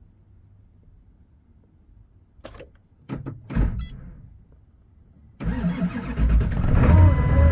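A few short knocks, then about five and a half seconds in a Ford 7.3 L Power Stroke V8 turbodiesel starts from cold at about 2 °F and settles into a steady run.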